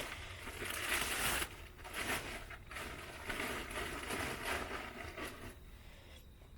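Plastic tarp rustling and crinkling as it is handled and tucked over a small pool, in irregular bursts, loudest about a second in.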